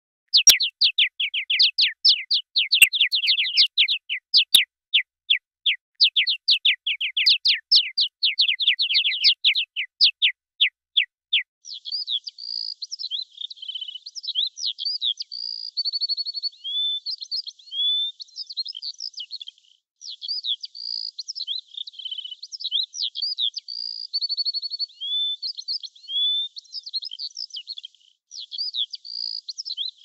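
Songbird calls: first a fast series of sharp downward-sweeping chirps, several a second, in bursts with short breaks. From about eleven seconds in, a varied twittering song with short whistled notes takes over.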